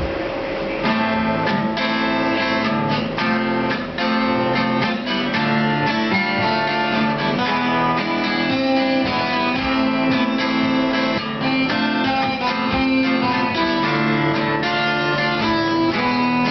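Acoustic guitar playing the instrumental intro of a song, starting about a second in.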